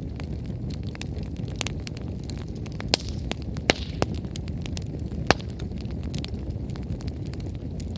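Wood fire burning with a steady low rush of flame and frequent crackles, with several sharp pops from the burning firewood, the loudest about three, three and a half, four and five seconds in.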